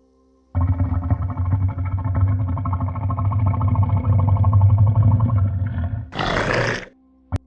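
A large animal's long, low, rasping call lasting about five seconds, followed by a short breathy hiss.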